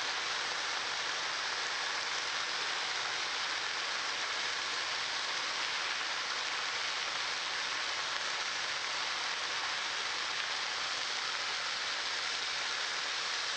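Chicken wings frying in a pan: a steady, even sizzle.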